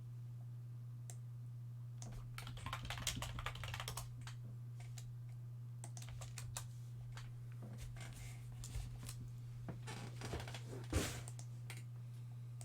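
Typing on a computer keyboard in irregular clusters of key clicks, over a steady low electrical hum.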